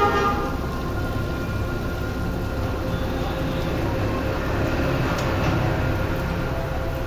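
Steady sizzling of spiced black chana frying in a metal pan, with a low rumble underneath and faint background music.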